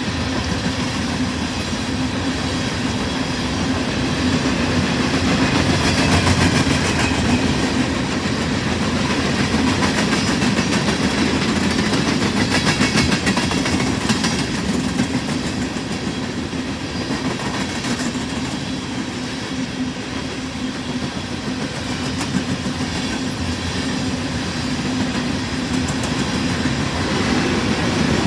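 A freight train rolling steadily past, its wheels clicking at intervals over rail joints.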